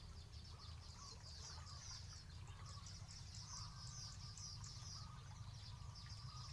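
Small birds chirping in quick series of short, high, downward-sliding notes, over a steady low rumble.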